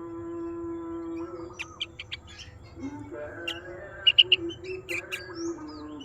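Sooty-headed bulbul (kutilang) giving short, sharp chirps, with a quick run of three loud ones about four seconds in, over a steady humming tone.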